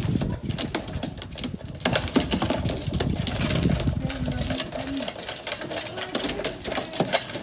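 Many pigeons pecking at feed, a dense run of rapid, irregular sharp clicks and taps.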